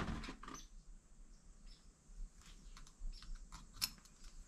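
Faint, scattered light clicks and taps of small hand tools and carburetor parts being handled, as the carburetor's emulsion tube is being worked loose.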